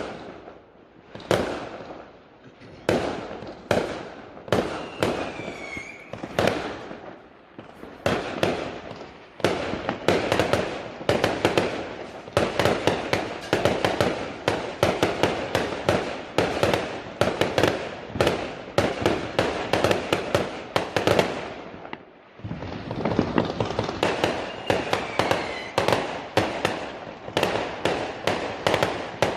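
Fireworks going off: single sharp bangs every second and a half or so, then a dense barrage of rapid bangs and crackles from about a third of the way in, with a brief lull near the end before it picks up again. A falling whistle sounds twice among the bangs.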